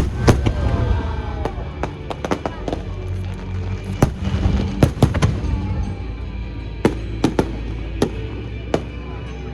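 Aerial fireworks shells bursting in a rapid, irregular string of a dozen or so sharp bangs and cracks, with music playing underneath.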